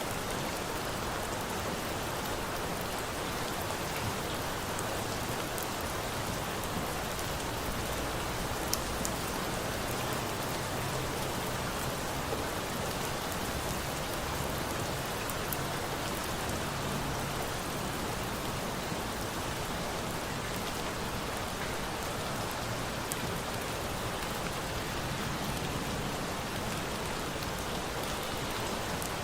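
Steady rain falling on a surface, an even, unbroken hiss, with a few faint sharp clicks here and there.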